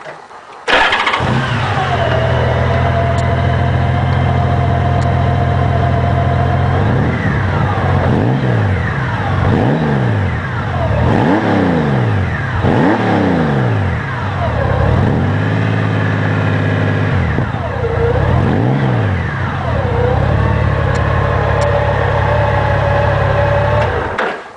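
A 2003 Honda Gold Wing's flat-six engine through aftermarket Alleycat mufflers starts up about a second in and idles. It is then revved in a run of quick throttle blips, each rising and falling in pitch, settles back to idle, gets two more blips, and is shut off near the end.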